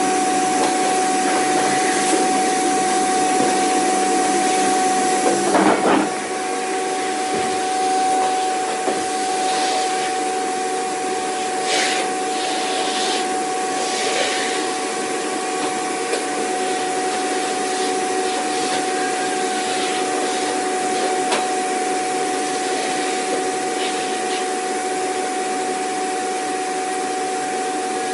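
Vacuum cleaner motor running steadily, a loud hiss with a constant whine. About six seconds in the tone of the airflow shifts and the level drops a little. A few brief scraping sounds come through later.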